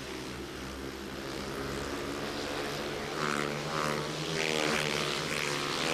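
Speedway motorcycles' 500 cc single-cylinder engines racing round the dirt track, a steady buzzing drone whose pitch rises and falls about halfway through.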